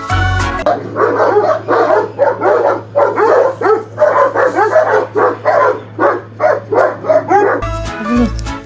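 A dog vocalizing in a long, fast run of short yips and whines that rise and fall in pitch, about three a second. Music plays briefly at the start and again near the end.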